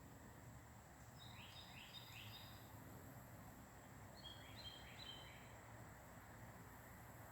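Faint outdoor ambience in which a songbird gives a run of three short, repeated high notes about a second in, then two or three more around four seconds in, over a steady thin high whine and a low background rumble.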